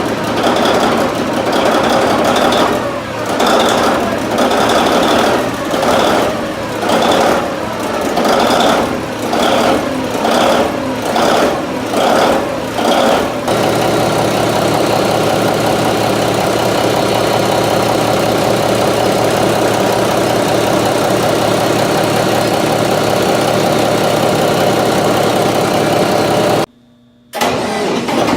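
A large marine diesel engine running loudly, pulsing in regular surges that gradually quicken, then abruptly settling into a steady, even run about halfway through. The sound cuts out briefly near the end.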